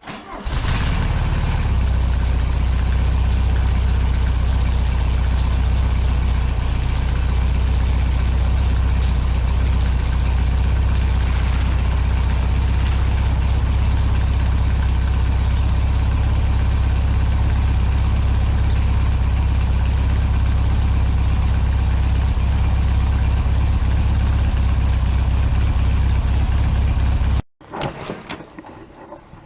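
1964 VW Beetle's air-cooled flat-four engine idling steadily, with a thin high whine over it; the sound cuts off abruptly near the end.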